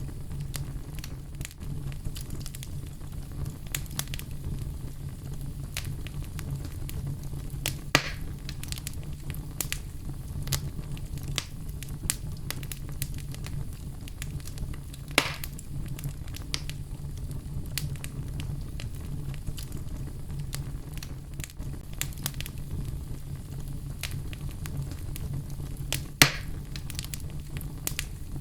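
Fire crackling in a fireplace: many small snaps over a low steady rumble, with three louder pops spread through.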